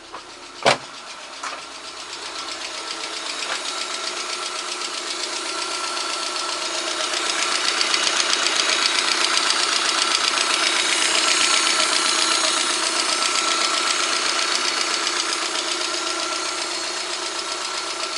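VAZ 124 1.6-litre 16-valve four-cylinder engine idling, partly warmed up, with a fast, even ticking knock from the top end that the owner has not yet traced and associates with the hydraulic lifters. A single sharp click about a second in; the engine grows louder through the middle.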